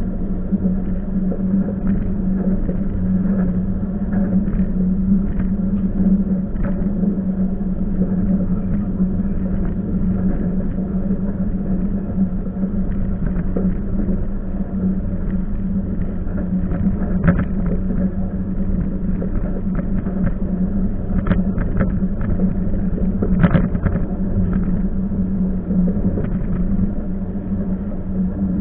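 Passenger train running along the track, heard from inside the carriage: a steady rumble with a low drone, and scattered clicks and knocks from the wheels on the rails.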